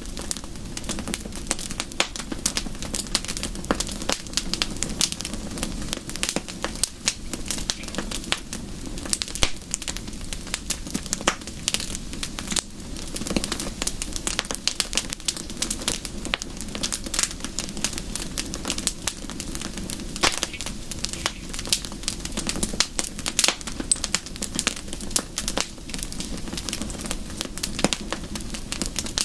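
Wood fire crackling: a dense, irregular run of sharp pops and snaps over a steady low rush.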